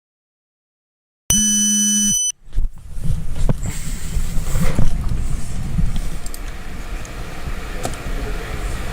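Complete silence, then a little over a second in, a steady, buzzy electronic beep lasting about a second that cuts off abruptly. It is followed by a low steady rumble with scattered knocks and rustles of handling noise on a body-worn microphone.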